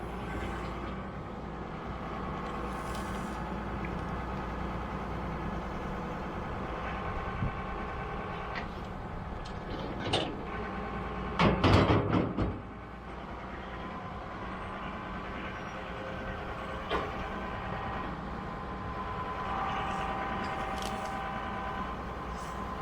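Farm machinery engine running steadily, with a few loud clanks about halfway through.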